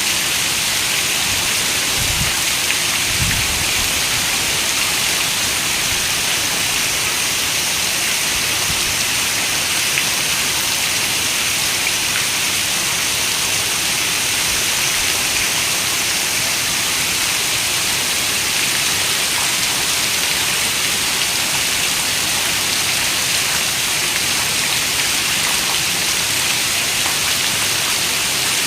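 Steady rain falling, an even hiss with no let-up, with a couple of brief low thumps about two and three seconds in.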